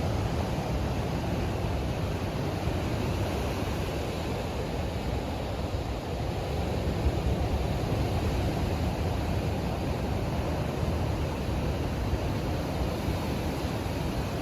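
Strong storm wind and ocean surf, a steady rushing noise heaviest in the low end, with the wind buffeting the microphone.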